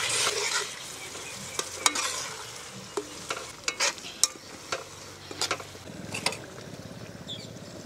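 Mutton fat masala sizzling and bubbling in a wide kadai while a perforated steel ladle stirs it, clinking and scraping sharply against the pan about ten times.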